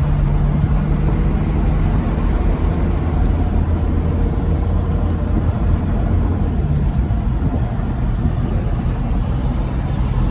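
Truck engine running steadily with road noise while driving, a continuous low drone.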